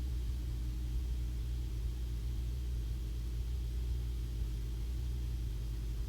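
Cessna 150's four-cylinder Continental O-200 engine and propeller droning steadily at climb power, a low, even hum with no change in pitch.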